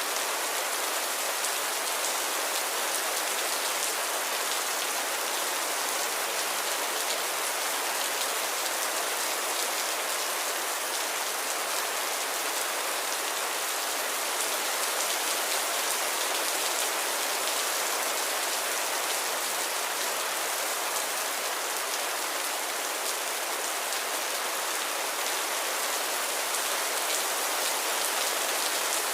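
Gentle, steady rain falling, an even hiss of many small drops with no thunder.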